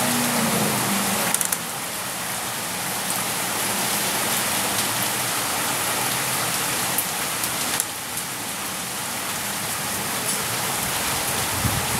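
Steady rain falling, an even hiss throughout. A low hum fades out about a second in, and a brief low rumble comes near the end.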